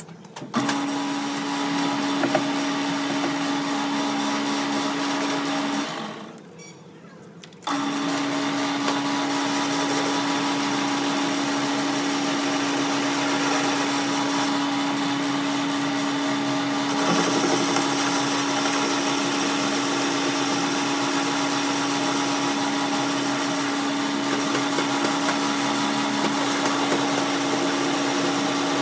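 A workshop machine's electric motor running with a steady hum over a broad hiss. It stops about six seconds in and starts again about two seconds later.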